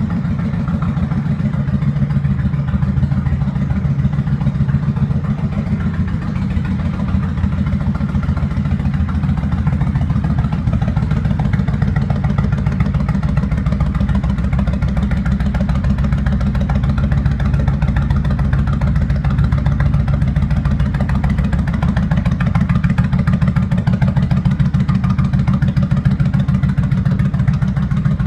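Kawasaki Vulcan VN1500 V-twin engine idling steadily, its exhaust pulses coming in a quick, even beat.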